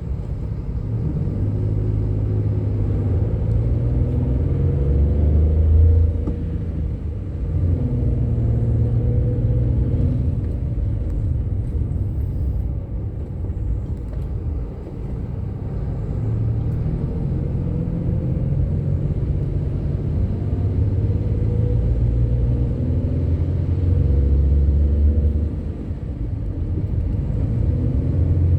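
Scania K310IB bus's diesel engine pulling under load, its pitch climbing and then dropping back several times over.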